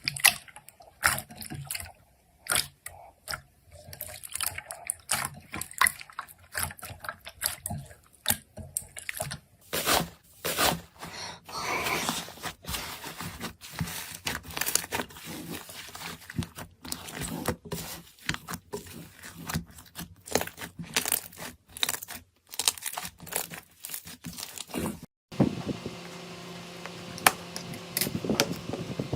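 Slime being squeezed, stretched and poked: a run of wet squelches and sticky crackling pops. Near the end a steadier faint hum comes in under the pops.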